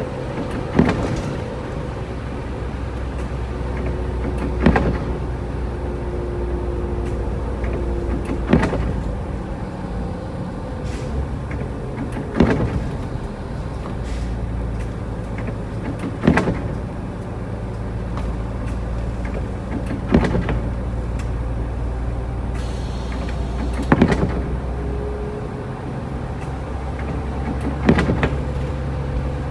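Inside a moving car in a snowstorm: steady engine and road drone. Over it, the windshield wipers thump at the end of each sweep, once about every four seconds.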